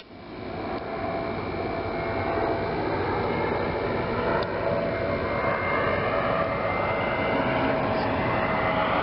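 Steady rushing noise with a faint hum, building up over the first second.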